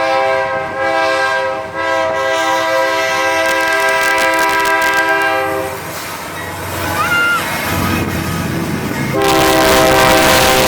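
Diesel freight locomotive's air horn sounding a steady chord of several tones that stops about six seconds in, then a second, louder blast about nine seconds in, over the rumble of the passing train.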